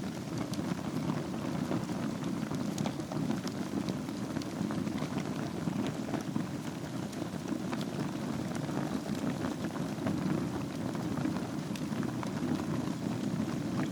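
Wood fire burning in a fireplace over glowing embers: a steady low rumble with scattered small crackles.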